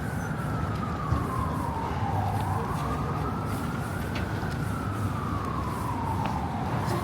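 Emergency-vehicle siren on a wail setting, sliding slowly down and up in pitch about once every four seconds, over the low rumble of street traffic.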